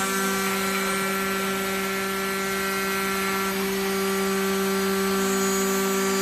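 3-axis CNC milling machine running on aluminum: a steady pitched whine with a constant hiss.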